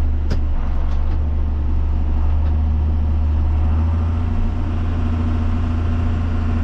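Engine of a vehicle on the road running steadily with a low drone, with a single brief click about a third of a second in.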